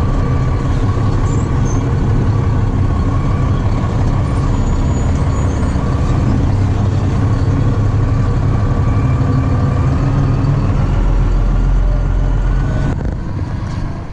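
Truck under way, with a steady rumble of engine and road noise that drops away about thirteen seconds in.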